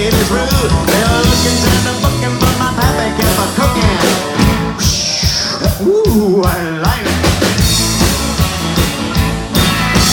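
Live country band playing an uptempo instrumental passage: a drum kit keeping a steady beat under a bass line, with a lead instrument bending its notes over the top.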